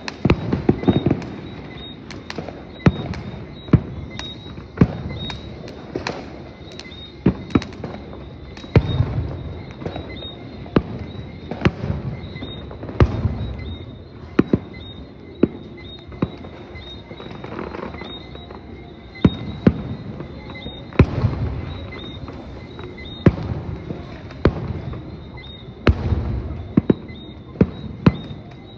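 Aerial fireworks display going off continuously: sharp bangs about once a second, with louder deep booms that rumble on briefly every few seconds.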